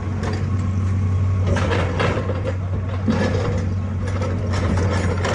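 Excavator's diesel engine running steadily, with scattered clacks and knocks from the machine's work.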